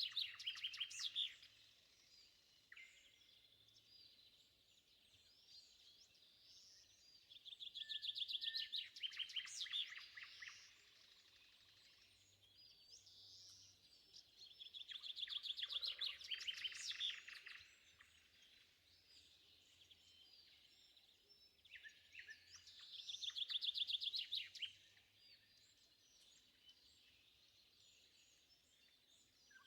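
A songbird singing four loud phrases, each a few seconds of rapid repeated notes, about seven seconds apart. Fainter birds call in the pauses between them.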